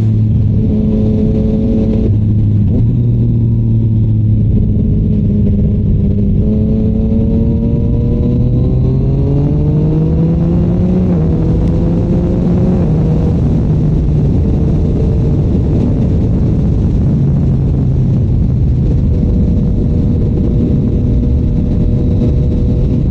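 Yamaha MT-09 three-cylinder engine through a Shark Street GP exhaust, ridden on the road with a rush of wind noise. It holds a steady note for several seconds, then climbs in pitch as the bike accelerates for about five seconds, then settles into a steady, slightly lower cruising note.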